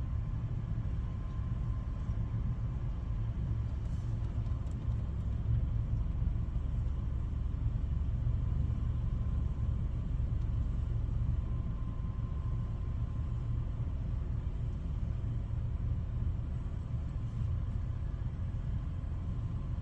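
Steady low rumble of a car engine idling, with no change through the stretch.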